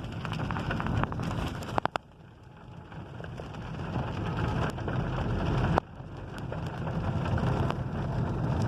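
Heavy rain drumming on a moving car, many sharp drop impacts over a steady hiss of wet road and a low engine rumble. The sound falls away suddenly about two seconds in and again near six seconds, building back up each time.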